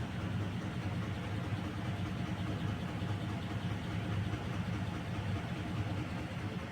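Blower section of a 6-ton package air-conditioning unit running with a steady, rough mechanical noise, compressor off. The noise comes from a badly worn, broken V-belt on the blower drive.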